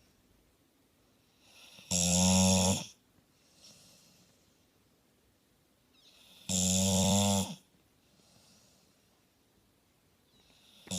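Staffordshire bull terrier snoring: three loud, rattling snores about a second long, each coming roughly every four and a half seconds, with faint breaths in between.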